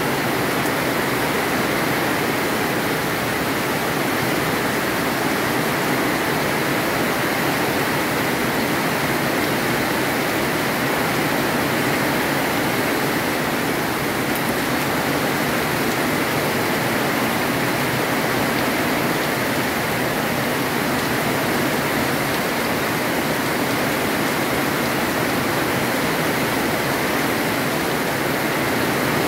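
Heavy rain pouring down in a steady, unbroken hiss, holding constant without let-up.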